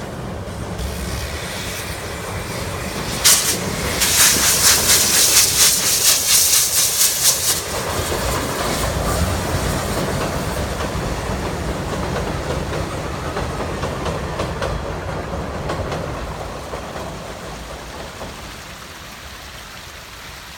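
Steam locomotive train passing: a sudden loud burst of steam about three seconds in, then loud hissing with rhythmic exhaust beats for about four seconds. The carriages then rumble and clatter over the rails, fading away near the end.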